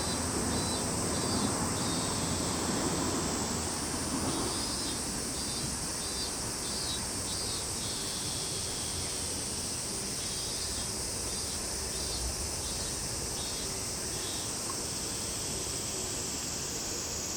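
Summer insect chorus: a steady high-pitched insect drone throughout, with three spells of rapid, pulsed chirping phrases from another insect, over a low distant rumble.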